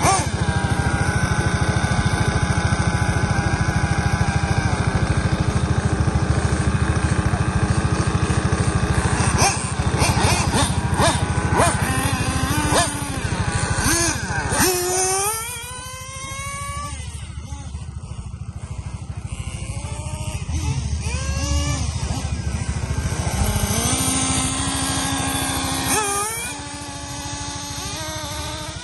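Small glow-fuel engines of 1/8-scale RC cars running at high revs, their whine sweeping up and down as the throttle is worked. The sound drops markedly about halfway through, with another drop near the end.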